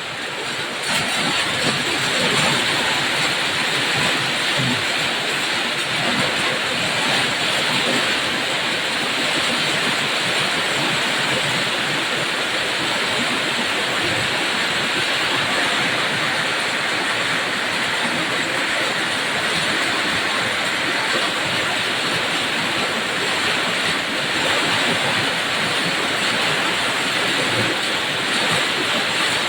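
Heavy rain falling, a steady dense hiss that holds an even level throughout.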